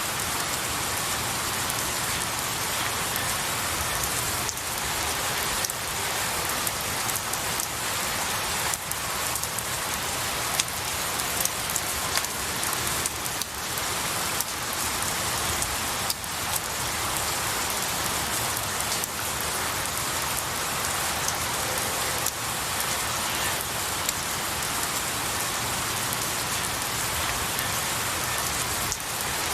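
Steady rain falling on pine needles and tree branches, a dense even hiss with many individual drops ticking through it.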